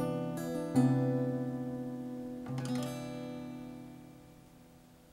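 Acoustic guitar music: strummed chords, struck again about a second in and once more past the two-second mark, each left to ring and fading away.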